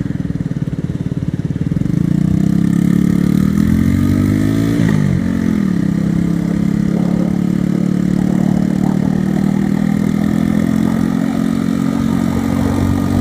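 Motorcycle engine running under the rider. It revs up to a peak about five seconds in, drops back, then runs steadily.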